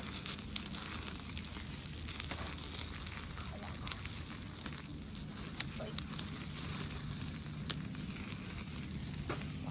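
Wood campfire crackling, with sharp irregular pops about once a second over a steady low background.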